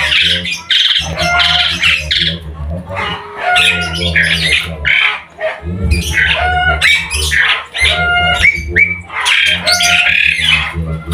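Many caged songbirds singing and calling over one another in quick repeated phrases, with a steady low hum underneath.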